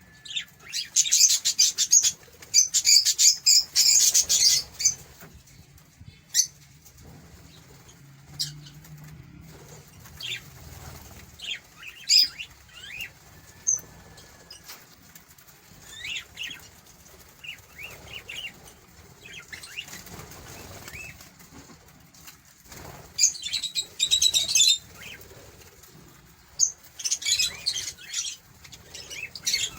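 Small birds chirping, with loud bursts of rapid, fluttering high notes near the start and again near the end, and scattered short chirps and a brief whistle in between.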